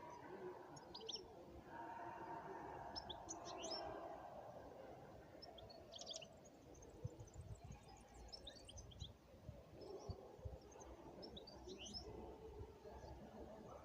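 Small birds chirping, faint: many short, high chirps in scattered clusters over a soft background hum.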